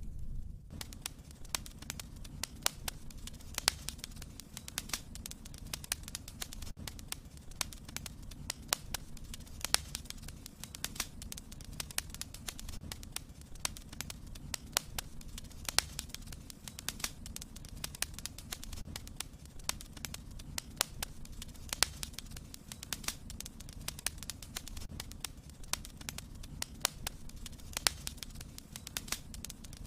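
Wood fire in a fireplace crackling: frequent irregular sharp pops and snaps over a low steady rumble.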